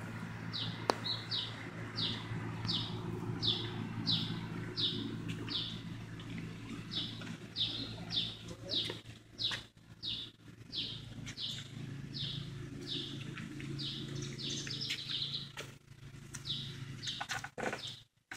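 A bird giving a long run of short, high, downward-slurred chirps, about two or three a second with a few brief pauses, over a steady low hum.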